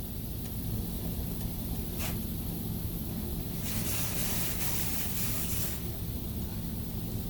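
Touchless automatic car wash spraying the vehicle, heard from inside the car: spray hisses against the body over a steady low machinery hum, growing louder for a couple of seconds midway through.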